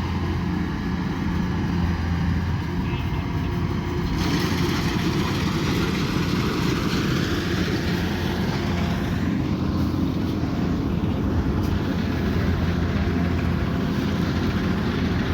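Kubota combine harvester running steadily under work, a constant engine drone with machinery noise; the sound turns harsher and hissier about four seconds in.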